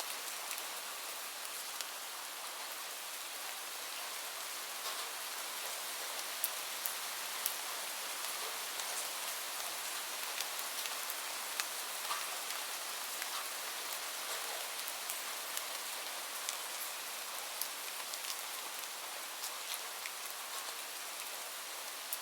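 Steady rain, a constant hiss with many individual drops ticking sharply through it.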